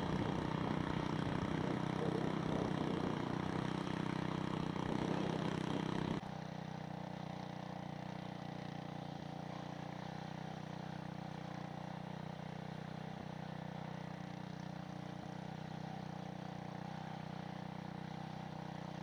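Small gasoline engine of a rototiller running steadily. Its level drops suddenly about six seconds in, then holds steady.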